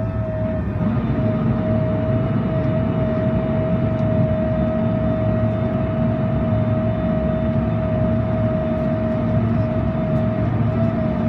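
Boeing 767-400ER's jet engines running, heard inside the cabin: a steady whine over a low rumble, the rumble growing a little about a second in.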